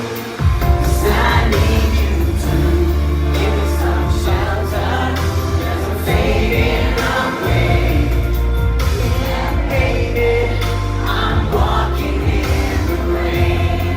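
Live pop band performance: a male vocal group singing in harmony over a band with a steady, heavy bass line. The bass drops out briefly at the very start and again about halfway through.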